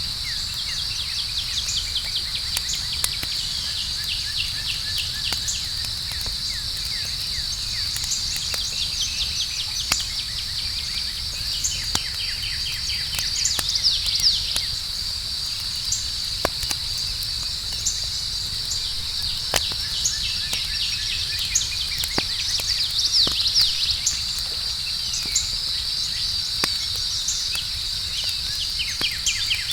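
Campfire crackling with scattered sharp pops over a steady high chorus of night insects, which add short falling chirps now and then.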